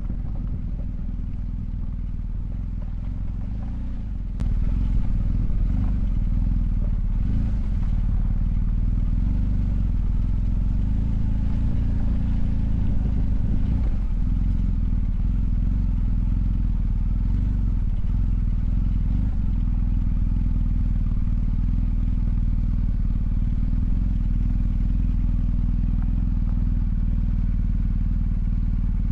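Motorcycle engine running steadily while riding. It gets louder about four seconds in and holds there.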